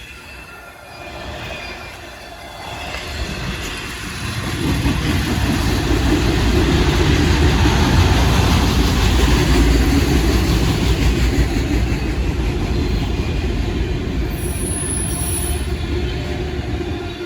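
A freight train rolling past at close range: a heavy, steady rumble of wheels on rail that builds over the first few seconds and then holds loud, with a brief high squeal near the end.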